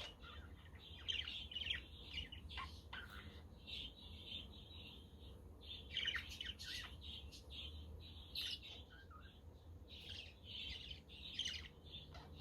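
Budgerigars chattering, a dense run of short high chirps and warbling phrases with no break.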